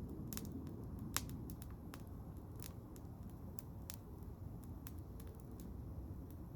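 Wood fire burning in the open: a steady low rush of flames with irregular sharp pops and crackles from the burning wood, one louder snap about a second in.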